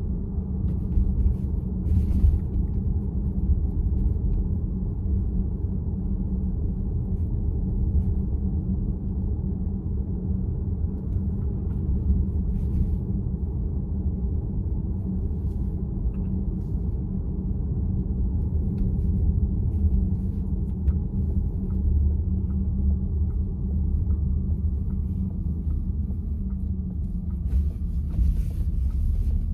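Steady low road and tyre rumble heard from inside the cabin of a VW ID.4 electric car while it drives.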